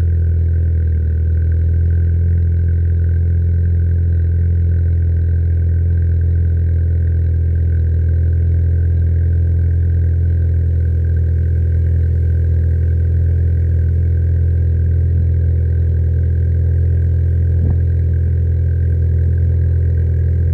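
2019 Ford Fiesta ST's 1.5-litre turbo three-cylinder running through an MBRP cat-back exhaust, idling steadily just after a cold start in freezing weather.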